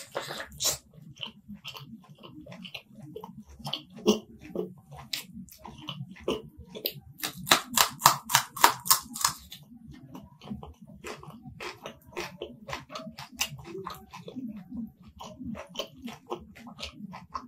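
Close-miked eating by mouth: chewing and wet lip-smacking as a person eats chicken curry and rice. About halfway through comes a run of louder smacks, several a second, for about two seconds.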